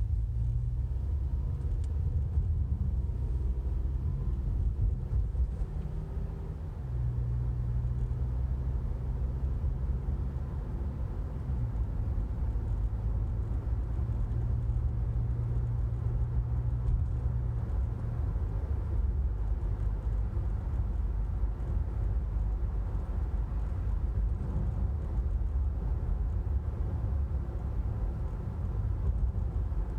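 A steady low mechanical drone, engine-like, whose pitch shifts a few times; no distinct clicks stand out.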